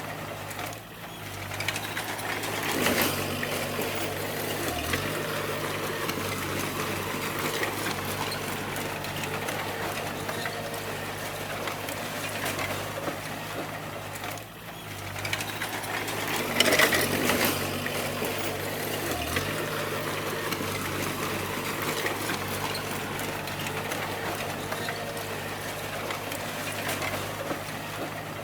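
Crawler bulldozer's diesel engine running steadily under a layer of mechanical clatter, with two louder surges of engine and machine noise about 3 and 17 seconds in, each just after a brief dip.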